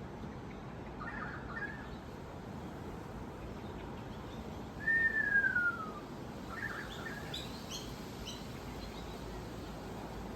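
Wild birds calling: a few short chirps, then one clear whistle sliding down in pitch about five seconds in, the loudest call, followed by brief higher chirps. A steady low hiss of outdoor background noise runs underneath.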